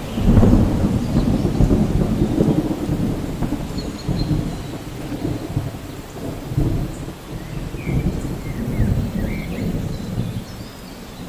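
Steady rain with a low rolling rumble of thunder, loudest in the first few seconds and slowly fading.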